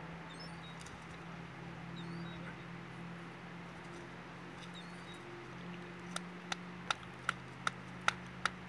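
A steady low hum with faint, short high chirps. About six seconds in, a regular ticking starts, roughly two to three ticks a second.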